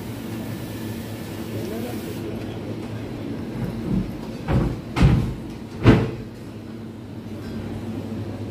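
A steady low hum with a few short thumps or knocks, four of them between about four and six seconds in, the last the loudest.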